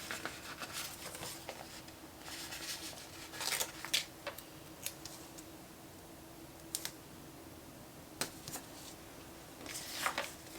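Paper and sticker handling: scattered light scratchy clicks and rustles as stickers are peeled from a sheet and pressed onto a planner page, over a faint steady hum.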